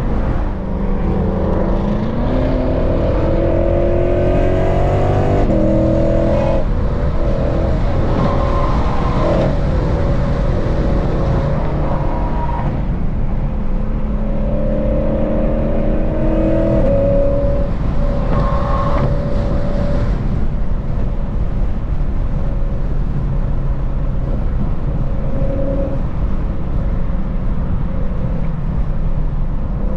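Lexus RC F's 5.0-litre V8 with a bolt-on aftermarket exhaust pulling hard under acceleration. Its pitch climbs for a few seconds, drops at an upshift about five seconds in, and climbs again mid-way. It then settles into a steady cruise for the last third.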